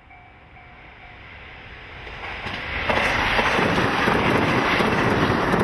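Electric commuter train approaching and passing close by, a rushing rumble that builds over the first few seconds and is loud from about three seconds in. A faint repeating chime fades out about a second in.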